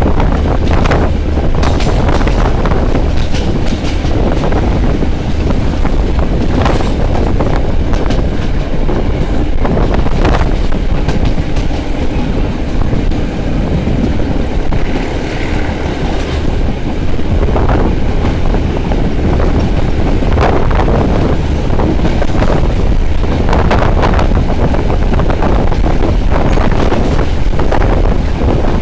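Train running along the track, heard from a carriage window: a steady rumble and rush with irregular clacks of the wheels over rail joints.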